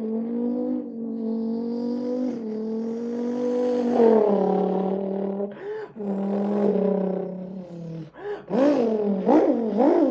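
A man's mouth imitating a Cadillac CT5-V Blackwing's V8 engine: a held, buzzing engine drone that drops in pitch about four seconds in, like a gear change, then ends with three quick revs that rise and fall.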